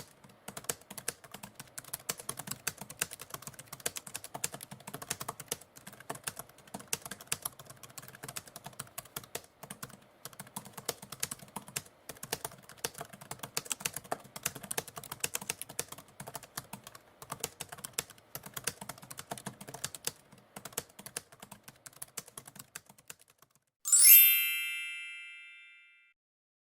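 Typewriter keys clacking in fast, uneven runs with short pauses, then stopping. A moment later a single bell dings and rings out over about two seconds: the end-of-timer signal.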